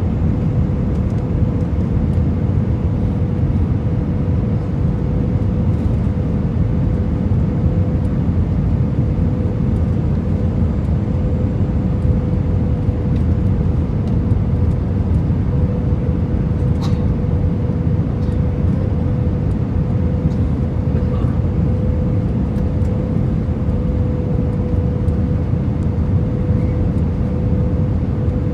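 Steady cabin noise inside an Airbus A320-214 with CFM56 engines: an even deep rumble of engines and airflow, with a steady hum that stays at one pitch throughout.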